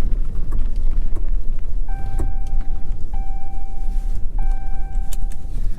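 Low rumble of a pickup truck, with three identical electronic warning chimes, each about a second long, starting about two seconds in.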